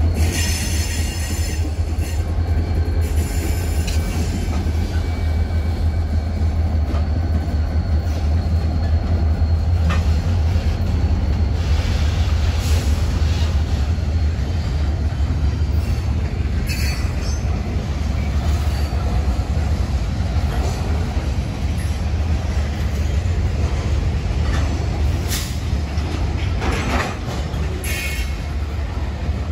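Southwest Pennsylvania Railroad freight train, diesel locomotives and a string of freight and tank cars, rolling past on the rails with a steady heavy low rumble. Wheels squeal briefly in the first couple of seconds, and sharper wheel-on-rail squeaks and clacks come through again near the end.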